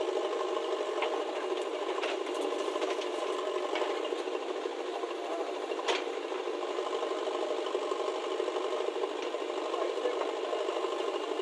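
Steady rattling machine run, like a small engine, with a few sharp clicks.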